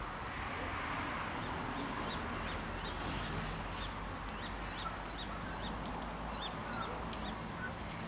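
Birds chirping in a garden: a scattered run of short, high chirps and calls, several a second, over a steady background hiss.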